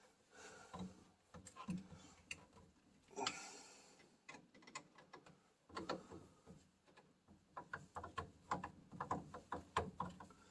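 Hand tools and metal furnace parts being handled: scattered light clicks and taps, a short scrape about three seconds in, and a busier run of quick, irregular clicks in the second half.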